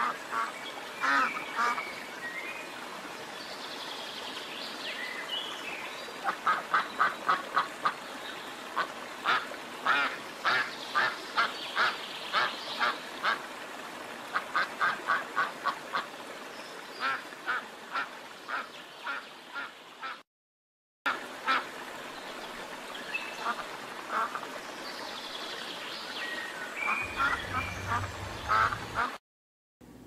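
Ducks quacking in repeated runs of short, quick quacks, about four a second.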